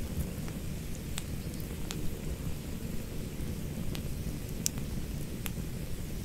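Campfire burning with a steady low rumble, broken by about five sharp crackles and pops from the burning wood.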